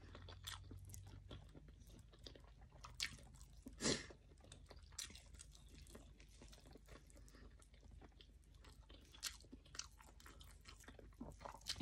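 Faint chewing and eating sounds of someone eating rice and fried omelette by hand: soft scattered mouth clicks and smacks, the sharpest about four seconds in.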